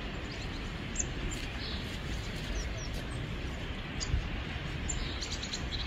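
Small birds chirping now and then over a steady low outdoor rumble, with a quick run of chirps near the end.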